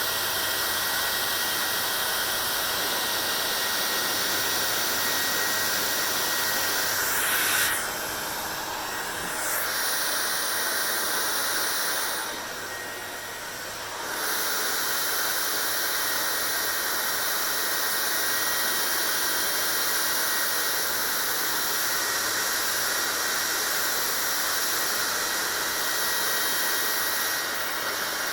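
Hair dryer blowing steadily: a constant rushing whir with a thin high motor whine. Its sound dips briefly about eight seconds in, and again for about two seconds around twelve seconds in.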